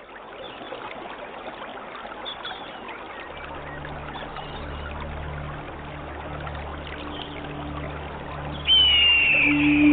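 Stream water trickling, fading in at the start. A low steady drone joins about three seconds in, and near the end music comes in loudly with a high, slightly falling flute-like tone.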